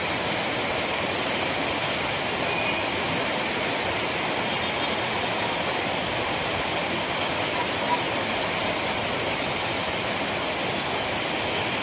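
Heavy pouring water, a steady dense hiss, with a brief click about eight seconds in.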